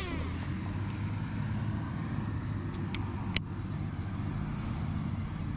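A vehicle engine running steadily with a low hum, with a sharp click about three and a half seconds in.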